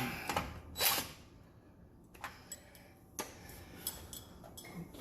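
Scattered clicks and light knocks of tools and fittings being handled, about half a dozen in all, the loudest about a second in.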